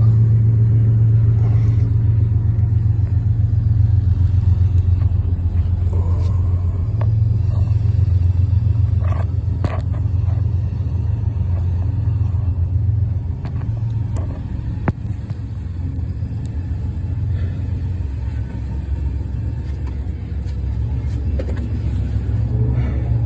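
A steady low rumble runs throughout, with a few isolated sharp clicks about nine, ten and fifteen seconds in.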